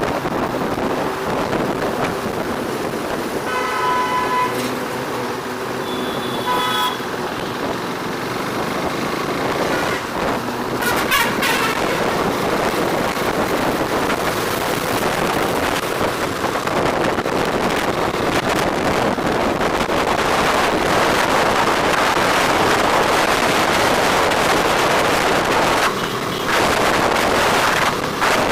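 Riding through city traffic: a steady rush of wind and road noise, with a vehicle horn honking twice, a longer honk about four seconds in and a short one about three seconds later. The rushing grows louder in the second half.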